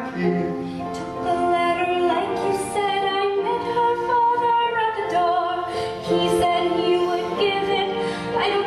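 A solo voice singing held, wavering notes over instrumental accompaniment in a musical-theatre duet.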